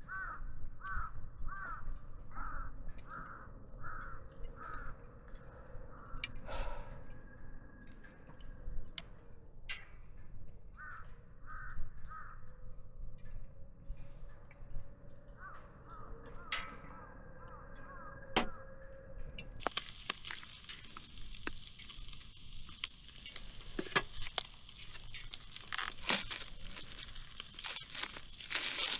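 A bird calling in runs of short repeated calls, about two a second, in three bouts. About two-thirds of the way in, a dense crinkling, tearing noise comes in suddenly and carries on, like packaging or a plastic bag being handled.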